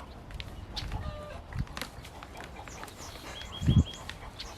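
Outdoor ambience with a low wind rumble on the microphone and scattered clicks. A quick run of four short high chirps comes a little over three seconds in, then a single loud low thump.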